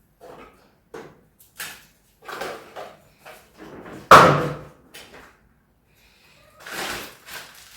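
Plastic knocks and clicks from an automatic air freshener dispenser being handled, with the loudest knock about four seconds in and a quick run of clatter near the end.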